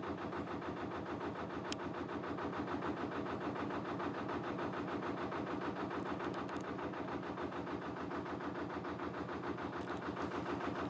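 Narrowboat's inboard diesel engine running steadily at low revs, with an even, regular beat.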